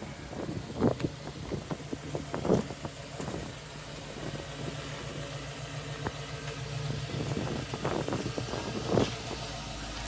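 Car engine idling steadily, with a few short knocks about a second in, again a second and a half later, and near the end.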